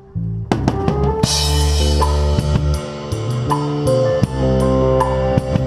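Rock band playing with the drum kit up front. After a brief break the drums come back in about half a second in, with a cymbal crash a moment later. Steady beats on the kit and cymbals then run over bass and guitar.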